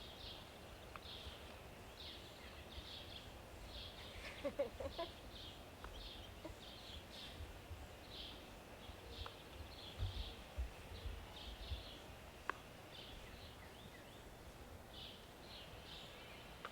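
Outdoor ambience: a bird giving short, high chirps about twice a second, with wind rumbling on the microphone.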